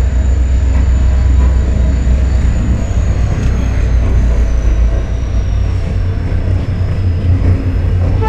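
Passenger train running, with a heavy, steady low rumble. A faint high whine slides slowly down in pitch during the second half.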